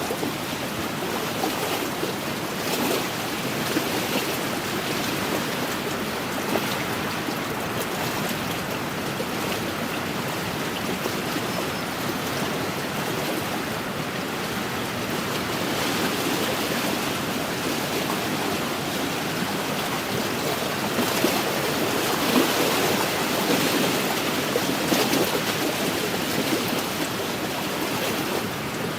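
Wind-driven waves lapping and washing against a lakeshore, a steady rush that swells a little about two-thirds of the way through.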